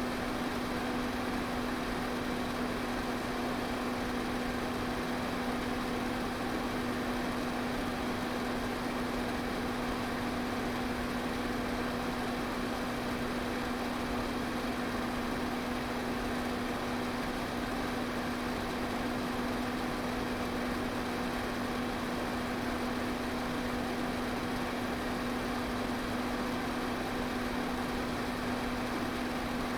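Electric fan running steadily: a constant rush of moving air with a steady motor hum beneath it.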